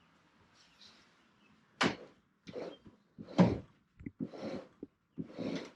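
Truck camper being pushed across its raised platform into a truck bed: about five short scraping, knocking bursts with gaps between them, starting about two seconds in.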